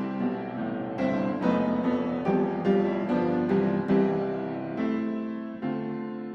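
Background piano music: notes struck every half second or so, each fading after it is played.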